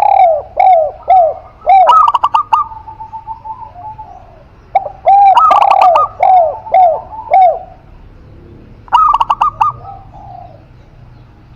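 Spotted dove and zebra dove cooing in turn. Runs of short, evenly spaced arched coos, a few a second, alternate with quick bursts of higher, clipped notes, in three bouts with brief pauses between.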